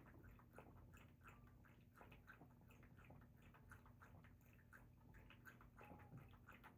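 A dog eating, with faint, quick clicks of chewing, a few to the second.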